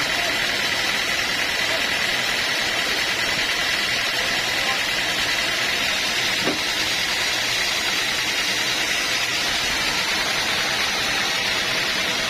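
A machine running steadily, with an even high whine over a constant rushing noise.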